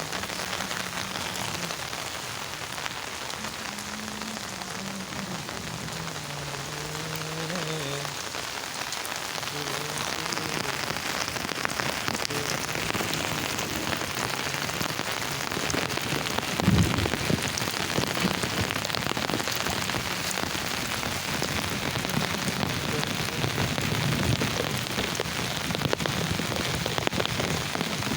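Heavy rain pouring down and pattering on surfaces, a steady downpour that grows slightly louder. A single dull thump comes just before the middle.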